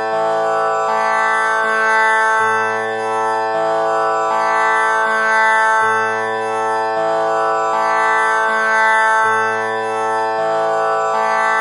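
Tanpura drone pitched to A (6 kattai): its strings are plucked one after another about once a second in a repeating four-note cycle, each note ringing on into a continuous buzzing drone.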